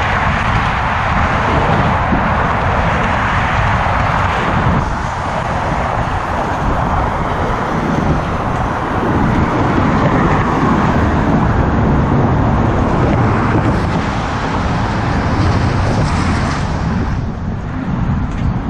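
Steady motor traffic on the Golden Gate Bridge roadway, cars passing continuously, with a fluctuating low wind rumble on the microphone from the moving bike.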